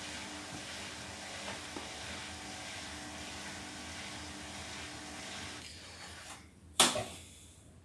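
Washing machines running in a spin cycle: a steady rushing hiss of the drum and water with a low motor hum. It fades away about six seconds in, and a single sharp loud knock follows.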